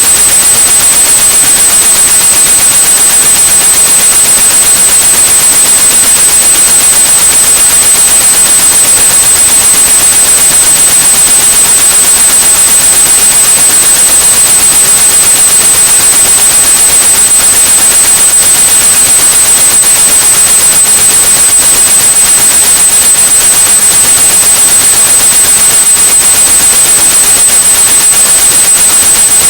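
A steady high-pitched 8100 Hz pure tone held over constant white noise, loud and unchanging: a tinnitus-masking sound track.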